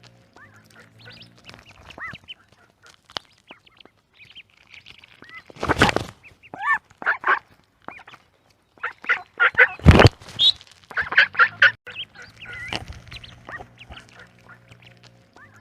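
A little duck calling in short quacks. The calls are loudest in a burst about six seconds in and in a quick run of quacks from about nine to twelve seconds.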